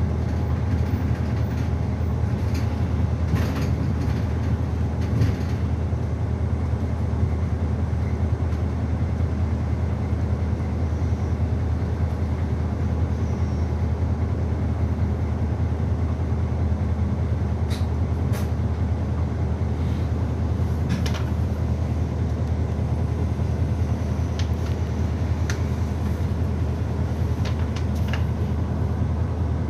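Interior running sound of a city bus: a steady, low engine drone and road noise heard inside the cabin, with occasional short clicks and rattles from the bodywork.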